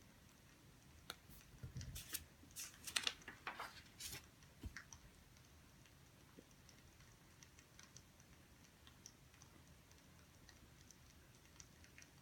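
Quiet room with a cluster of sharp clicks and rustles from about one to four and a half seconds in, then only faint scattered ticks.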